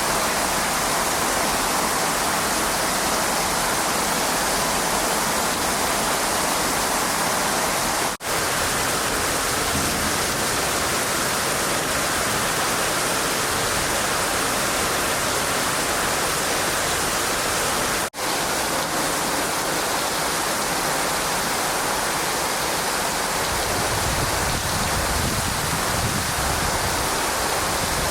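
Heavy typhoon rain pouring down as a loud, steady rush of noise, broken twice by brief silent gaps.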